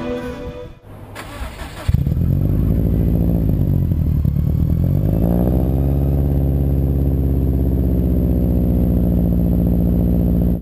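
2007 Subaru WRX STI's turbocharged flat-four engine cranking briefly and catching about two seconds in, then running at a steady idle, its pitch dipping and rising again before it holds steady.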